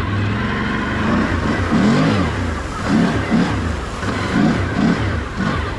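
Can-Am off-road vehicle's engine revving up and down repeatedly, several quick rises and falls in pitch from about two seconds in, over a steady rushing noise.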